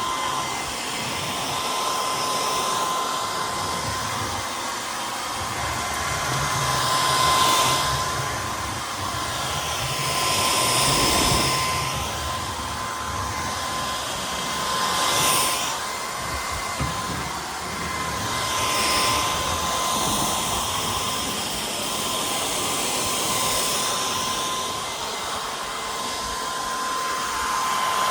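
Cordless stick vacuum running, a steady rushing sound with a constant high whine, swelling and easing in loudness every few seconds.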